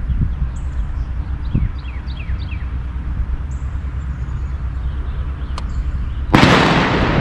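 Steady wind rumble on the microphone, with a bird calling a quick run of short falling chirps in the first few seconds. Near the end a sudden loud rush of noise cuts in and holds.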